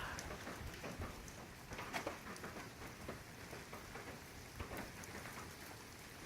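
Rain falling steadily, an even hiss with scattered individual drops striking nearby.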